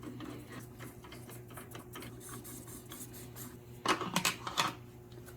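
Metal parts clicking and scraping as the front plate of a bone-fiber grinder is worked off by hand, with a quick run of louder clinks about four seconds in, over a steady low hum.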